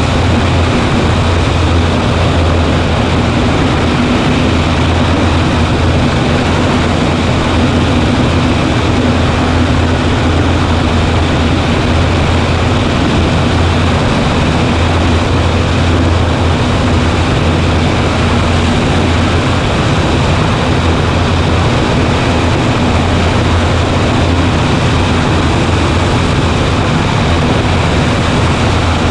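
Cessna 140A's engine and propeller running steadily in flight, a loud constant drone with a deep low hum.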